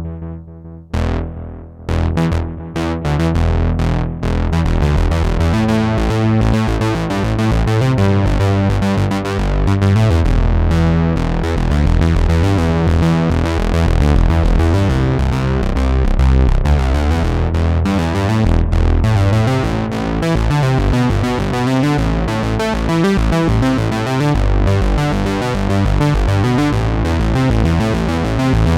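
Arturia MatrixBrute analog synthesizer playing a bass patch, a busy bass line of short notes with sharp attacks and a heavy low end.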